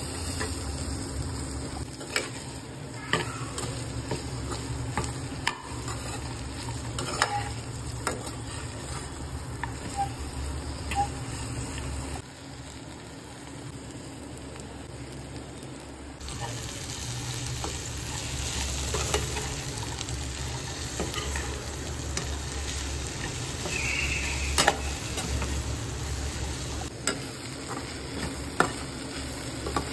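Chopped okra frying in hot oil in a pan, sizzling steadily while a spoon stirs and scrapes through it, with a few sharp knocks of the spoon against the pan. The sizzle drops quieter for a few seconds about halfway through, then comes back up.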